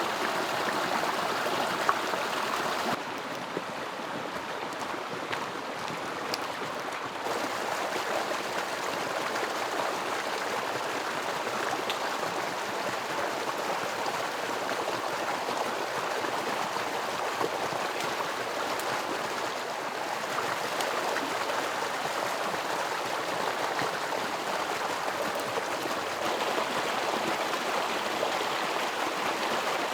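Mountain river rushing: a steady roar of flowing water, a little quieter for a few seconds near the start.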